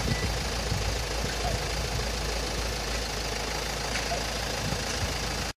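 Hyundai Tucson ix (ix35) engine idling steadily. The sound cuts off abruptly near the end.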